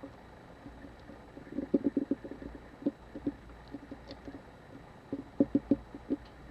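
Irregular small taps and scratches of a hand tool working at a camera body's brittle leatherette covering, in short clusters.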